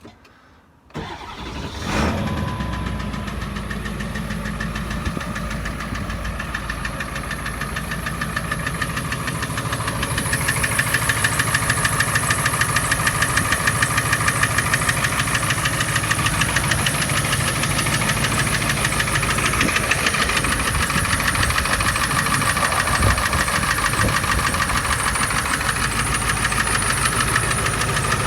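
Ford 7.3 Power Stroke turbo-diesel V8 starting about a second in and idling, louder from about ten seconds in. It has a knock that stays on cylinder number 4 even after its injector is swapped with number 2's; friends take it for injector knock.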